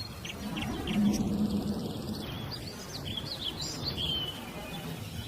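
Bird chirping: a string of short, high chirps and quick gliding notes, busiest about three to four seconds in, over a low background hum.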